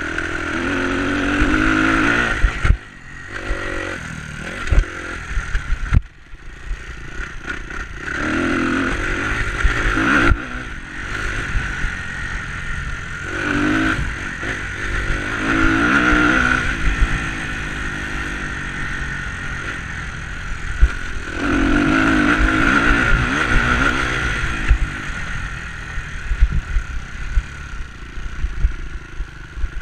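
Enduro dirt bike engine revving up and easing off again and again as it is ridden, with rattling knocks mixed in.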